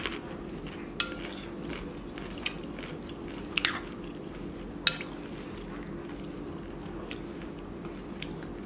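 Close-up chewing of a crunchy corn tostada topped with crab and shrimp ceviche. A few sharp clinks of a metal spoon against a glass bowl come through as ceviche is scooped, over a steady low hum.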